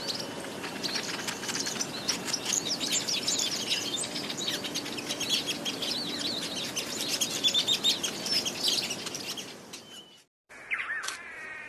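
Many birds chirping and calling at once, a dense run of quick rising and falling chirps. It cuts off abruptly about ten seconds in and gives way to a different call that starts with a falling whistle.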